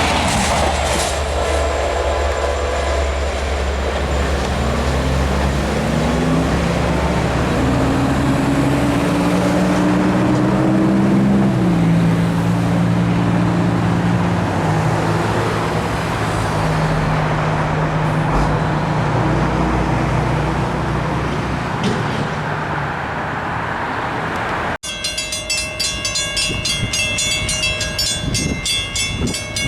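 A Long Island Rail Road train passing at a grade crossing, with a diesel engine note that rises in pitch in steps as it pulls away, over a heavy low rumble. Near the end it cuts abruptly to a different sound with several steady tones and a fast repeating pattern.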